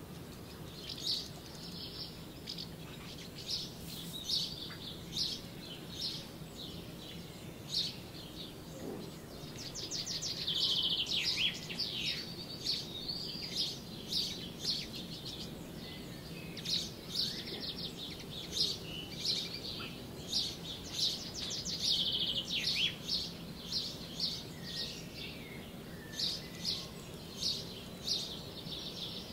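Small birds chirping and singing: many short repeated chirps, with louder quick trills about a third of the way in and again past the middle, over a low steady hum.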